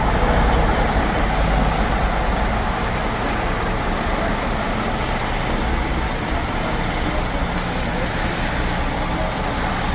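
1963 Mack truck's engine running steadily, a deep continuous rumble that is a little louder for the first couple of seconds.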